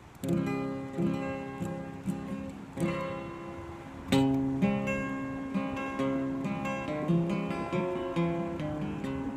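Acoustic guitar starting a song's instrumental intro about a third of a second in, with strummed chords and picked notes.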